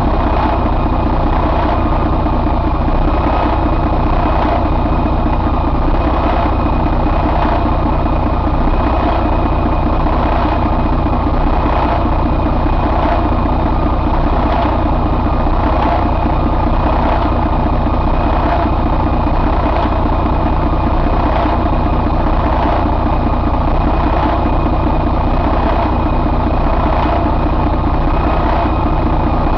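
Detroit DD13 inline-six diesel engine running at a steady idle.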